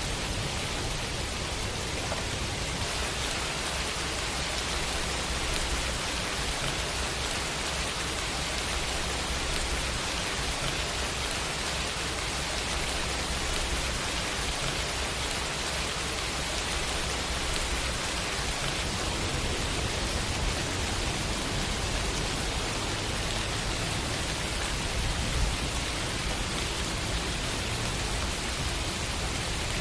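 Steady rain falling as a continuous even hiss, with a low rumble underneath and one brief louder tick about 25 seconds in.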